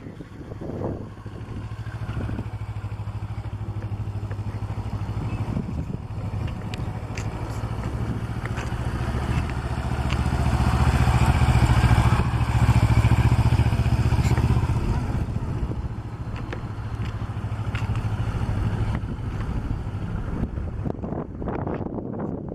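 Motorcycle engine running at low speed as the bike is ridden through slow practice turns. It grows louder as the bike passes close about halfway through, then eases off as it moves away.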